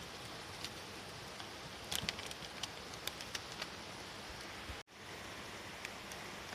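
Steady rain with scattered drops ticking close by, a small cluster of them about two seconds in. The sound cuts out for an instant just before five seconds in.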